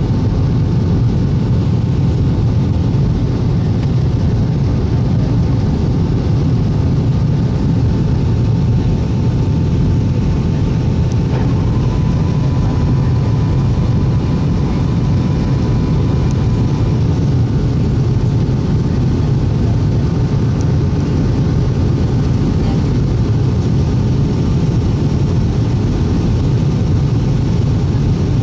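Boeing 757-200 jet engines running with a steady low rumble. A faint whine steps up slightly in pitch about eleven seconds in and fades out several seconds later.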